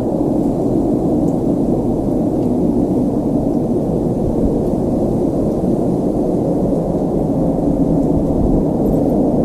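A loud, steady low rumbling drone with no distinct beats or tones, growing slightly louder near the end: one of the unexplained sky-noise recordings circulated as a mysterious sound from the sky.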